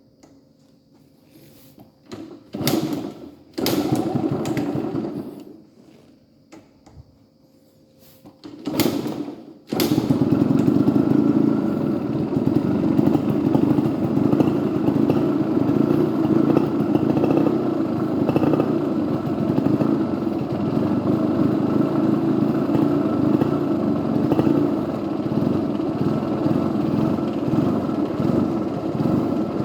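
Yamaha RD50's 49 cc two-stroke single-cylinder engine being started: it fires briefly twice, then catches about ten seconds in and runs steadily with uneven firing. The owner says it won't rev and suspects a primary (crankcase) compression leak.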